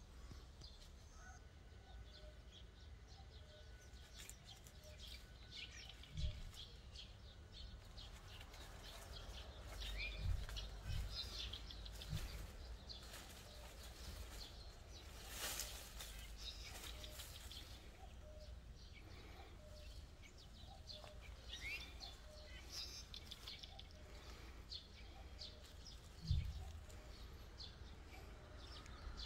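Quiet outdoor ambience with scattered short bird chirps, a few low thumps and one brief noisy burst near the middle.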